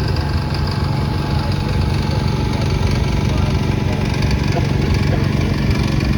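1952 Allis-Chalmers WD tractor's four-cylinder engine running steadily as it drives past.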